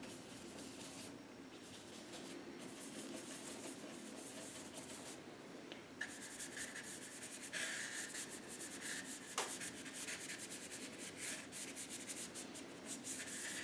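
Paintbrush scrubbing acrylic paint onto canvas in quick, scratchy strokes. The brushing gets busier and louder about halfway through.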